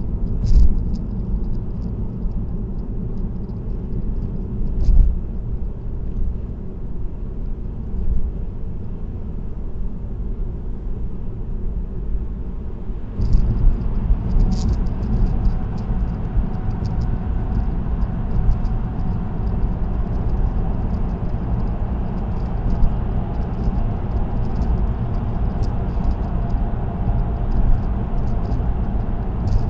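Road and tyre noise of a car cruising on an expressway, heard from inside the cabin: a steady low rumble that steps up louder and rougher about 13 seconds in, with faint light ticking on top.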